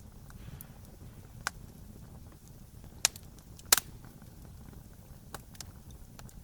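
Wood fire burning: a low steady rumble with about six sharp, scattered crackles and pops of burning wood. The loudest is a double pop near four seconds in.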